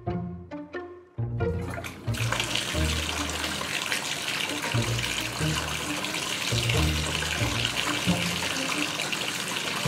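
Background music with a bass line; from about two seconds in, a steady rush of running water, like a tap or bath overflowing, plays over it.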